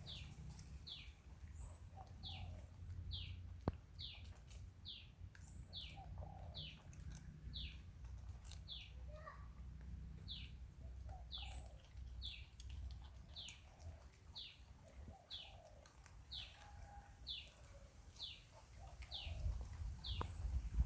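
A bird calling: a high, falling chirp repeated steadily, roughly once a second, over a low rumble.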